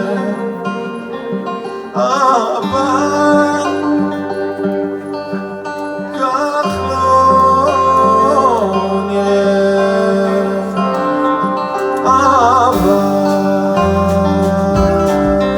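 Live song: a voice holding long wavering notes over acoustic guitar, with low bass notes underneath.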